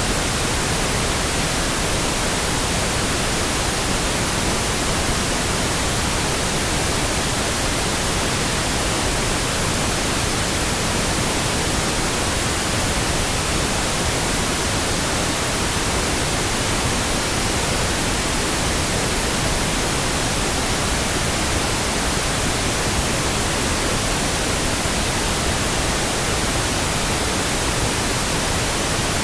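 Steady pink noise: an even, unbroken hiss with no changes, pauses or other sounds.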